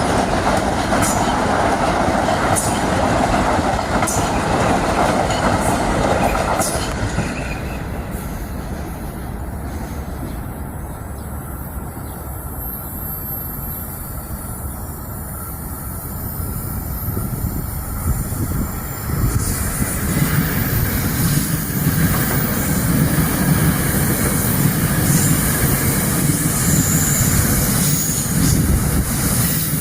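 Metro-North train passing on the rails, with wheels clicking over rail joints and some wheel squeal. The passing sound drops away about seven seconds in. Train rumble builds again from about twenty seconds in.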